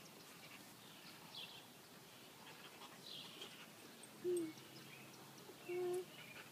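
Faint outdoor background with birds calling: a few short high chirps that drop in pitch, and two brief low notes about four and six seconds in.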